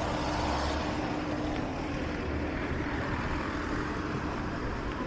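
A steady engine drone: a constant low hum under an even rushing noise.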